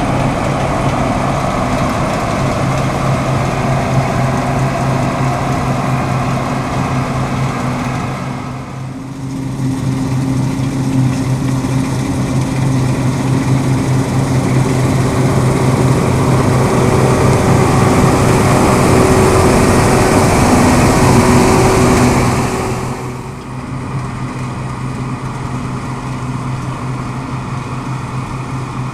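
Deutz-Fahr M36.10 combine harvester running steadily with a deep engine hum. It dips briefly about a third of the way in, grows louder, then drops away sharply about three-quarters through.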